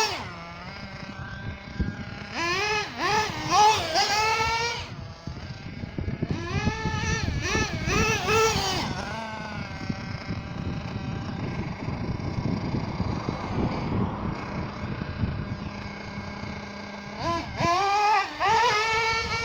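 Nitro RC buggy engine (Ansmann Virus) revving hard in bursts, its high-pitched whine climbing and falling several times in quick succession. There are three such clusters: a couple of seconds in, around the middle, and near the end, with a lower, rougher running sound between them.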